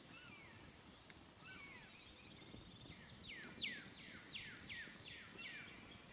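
A songbird sings a run of six quick, clear notes, each sliding steeply down in pitch, about halfway through, after a few fainter falling calls. Faint crackles from a smoldering campfire can be heard underneath.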